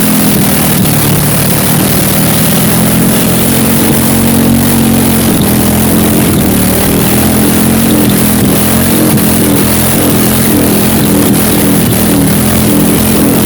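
Junk Chevy V8 engine running hard and steady at a held speed, unloaded, during an upper-limit test to destruction.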